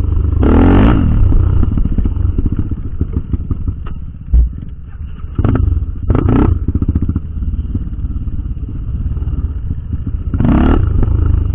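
Trail motorcycle engine running under way, heard from on or next to the bike, with several short louder bursts and a single low thump about four seconds in.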